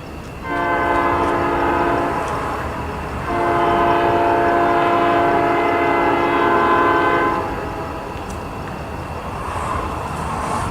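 Locomotive air horn, a five-chime P5 on a GP38-2, sounding a shorter blast and then a longer one of about four seconds, with the train's running noise underneath.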